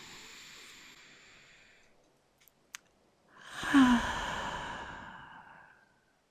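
A woman's slow breath, then a small mouth click about two and a half seconds in, then a longer, louder sigh with a brief hum at its start that falls in pitch.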